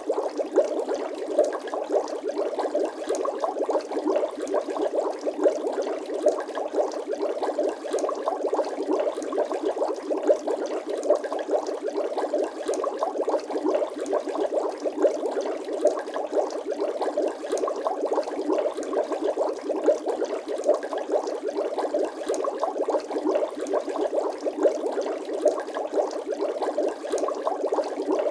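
Bubble sound effect: water bubbling steadily, a dense stream of quick small pops that runs without a break.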